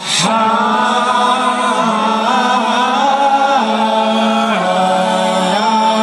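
Several voices singing long held notes in harmony, the chord shifting every second or so, at a live concert.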